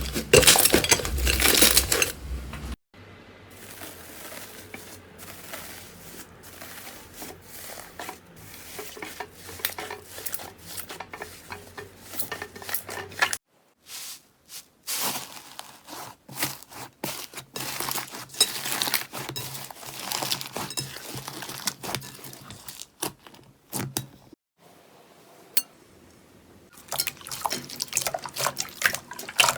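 Slime being squished and pressed by hand, a dense run of wet clicks, crackles and pops. It comes in several stretches that cut off abruptly, as one clip gives way to the next.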